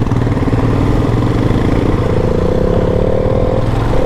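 Royal Enfield Himalayan's single-cylinder engine running under way and pulling harder, its note rising from about halfway through, with a short break near the end.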